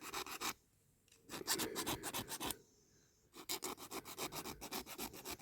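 Hand file rasping on the metal axle end of a diecast toy car, in three bursts of quick back-and-forth strokes with short pauses between, filing away the axle end so the hubs come off.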